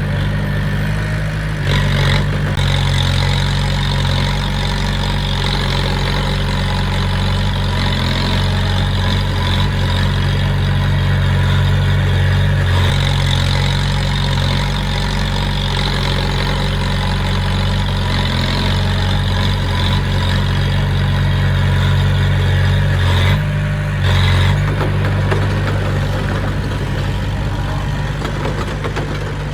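Diesel engine of heavy earthmoving equipment running steadily, with a high whine above it and brief changes in the engine note about two seconds in and again near twenty-four seconds.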